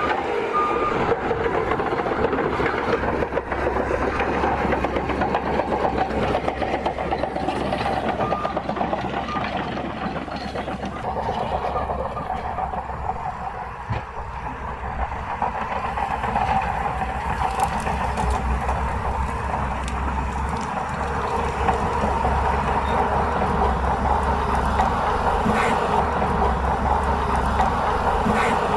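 Crawler bulldozer running under load as it pushes dirt: steady diesel engine noise mixed with the rattle of its steel tracks. The noise eases for a few seconds around the middle, then picks up again.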